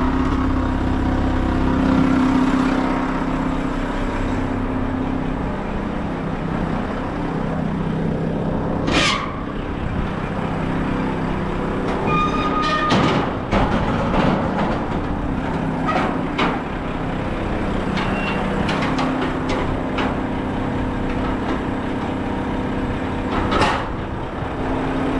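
Mack front-load garbage truck running, heard from the cab, with a steady engine hum that eases in the middle and comes back. Several sharp metallic clanks and bangs break in: one about nine seconds in, a cluster a few seconds later, and another near the end.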